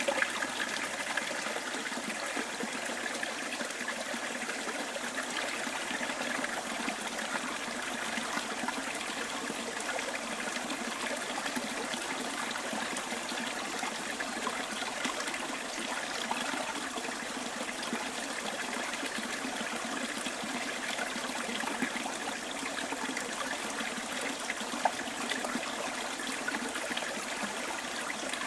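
Stream flowing with a steady trickling rush of water.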